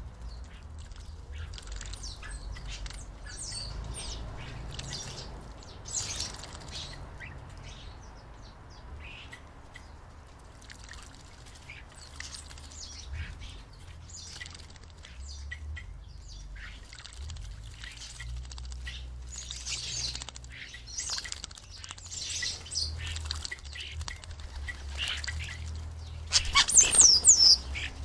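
Common starlings calling at a birdbath: scattered short chirps, clicks and whistles throughout, with a louder burst of harsh chattering near the end.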